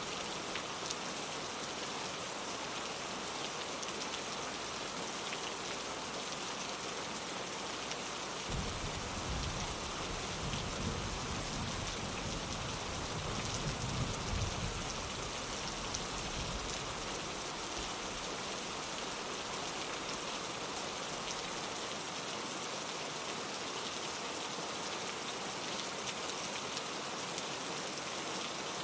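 Steady rain pattering on a window, with a low rumble of thunder that comes in about a third of the way through, swells, and fades away by about the middle.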